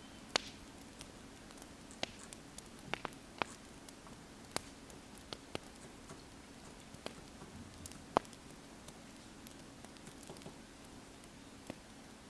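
Wood fire crackling, with irregular sharp pops over a faint steady hiss and hum. The loudest pops come near the start and about two-thirds of the way through.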